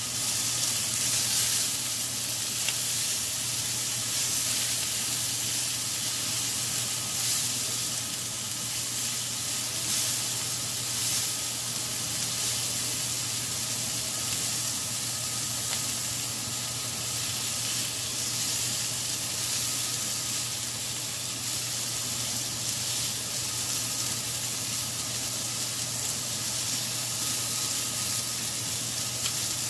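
Sausage links and egg-soaked French toast sizzling on a hot flat-top griddle: a steady frying hiss, with a faint low hum underneath.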